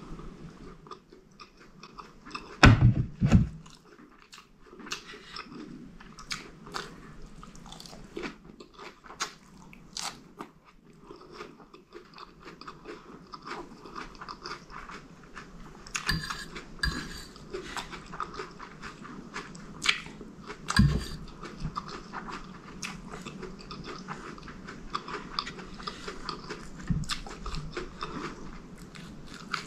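Close-miked chewing and crunching as a mouthful of shredded lettuce and curry is eaten, with wet mouth sounds and scattered sharp clicks. A few loud low thumps come about three seconds in.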